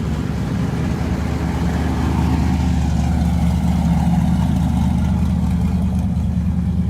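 A car engine running close by with a deep, steady rumble that grows a little louder in the middle.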